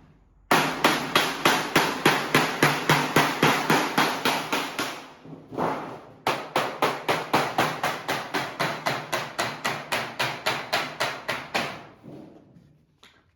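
Hammer blows on sheet-metal ducting, rapid and evenly spaced at about four strikes a second. They come in two runs of about five seconds each, with a short break between them.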